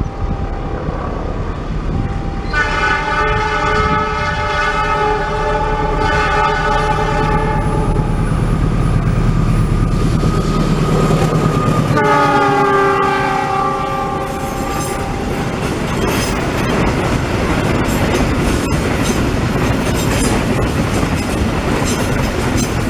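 Diesel-electric locomotive passing with its engine drone underneath and two long multi-tone horn blasts: the first about five seconds long, the second, about four seconds later, dropping in pitch as the locomotive goes by. After that come the wagons clattering over the rail joints with a steady rumble.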